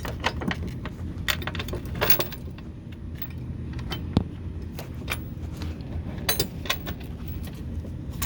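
Metal hardware being handled: bolts, nuts and steel brackets clinking and rattling in irregular sharp clicks while running-board brackets are fitted to the truck, over a steady low hum.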